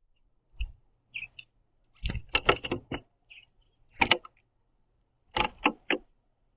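House sparrows knocking and tapping at a wooden platform feeder: sharp knocks in small clusters, several in quick succession, with a few faint short chirps between them.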